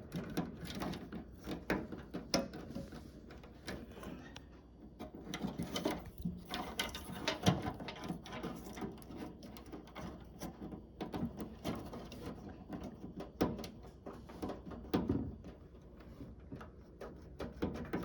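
Irregular clicks, taps and rattles of hard plastic and metal parts being handled and worked at, as a microwave's door-switch assembly and its plastic molding are pried and slid free.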